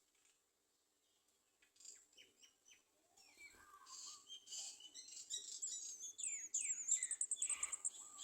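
Garden sunbirds chirping in high, thin notes. The chirps begin sparsely a couple of seconds in and grow louder and denser, with quick falling notes and a fast high trill near the end.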